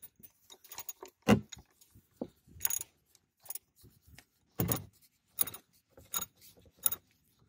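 Irregular metallic clinks and knocks of a ratchet and socket with an extension being worked on an oil drain plug. The louder knocks come about a second apart.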